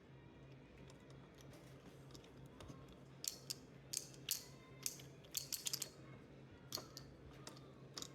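Faint background music with a steady low hum, and a run of sharp clicks and taps in the second half.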